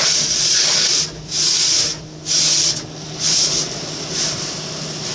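Automatic car wash working over the car, heard from inside the cabin: a loud, steady hissing rush that drops away briefly three times about a second apart, over a faint steady hum.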